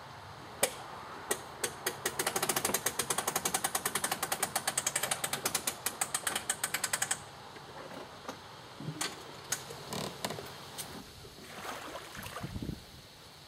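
A ratchet clicking: a few single clicks, then a fast, even run of about nine clicks a second for around five seconds that stops abruptly. Scattered soft knocks and handling noise follow.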